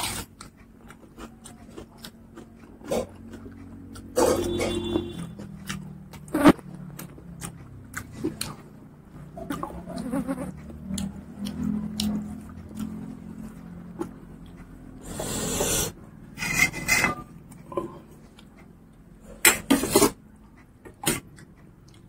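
Close-miked mukbang eating: a person chewing a mouthful of rice and pork curry eaten by hand, with many wet mouth clicks and smacks and a few louder breathy bursts about two-thirds of the way through.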